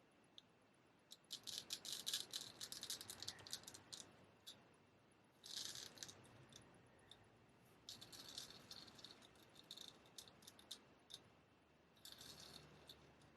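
Straight razor blade scraping in short strokes: four faint bursts of fine, rapid crackling, the first and longest about a second in, the others separated by pauses of a second or two.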